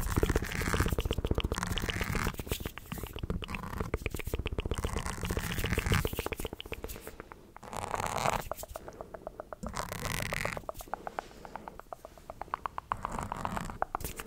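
ASMR mouth sounds made right at the microphone: rapid, crackly clicking and smacking, steady for about six seconds, then in shorter bursts with quieter gaps.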